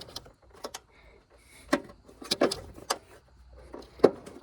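Several sharp knocks and clicks of hard parts being handled and pushed into their mounting holes while an A/C condenser is fitted into the radiator support. The first comes about a second and a half in, a quick cluster follows, and the loudest knock lands near the end.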